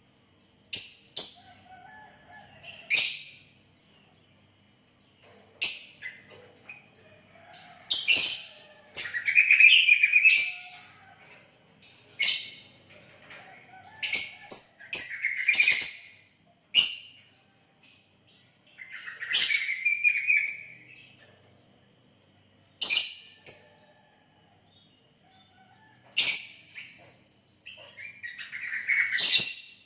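Sooty-headed bulbul (kutilang) singing: short whistled phrases one after another, every second or two, with a few brief pauses between them.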